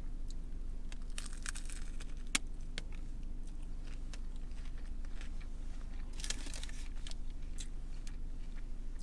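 Chewing and crunching of a Cheesy Gordita Crunch's hard taco shell, in crisp crackly bursts, two clusters about a second in and again around six seconds in. A steady low hum runs underneath.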